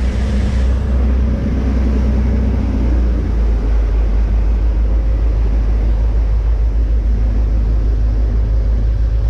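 A ship's engine running: a steady deep rumble with a fast, even pulse.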